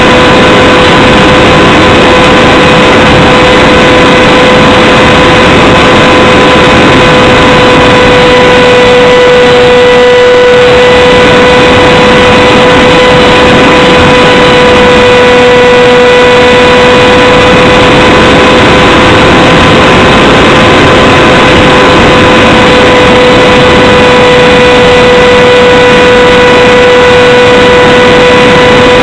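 Brushless electric motor and pusher propeller of a Radjet 800 RC flying wing, heard from a camera mounted on the plane: a steady, even whine at constant throttle over loud wind rush.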